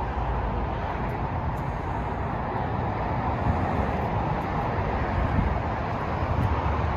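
Steady outdoor noise: wind buffeting the microphone over a low, even rumble of traffic.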